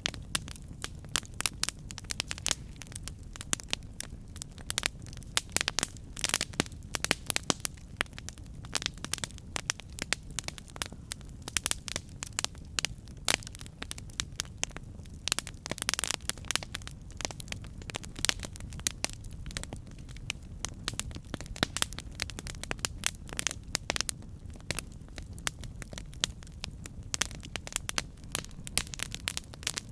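Campfire burning, wood crackling and popping in many irregular sharp snaps over a steady low rumble of the flames.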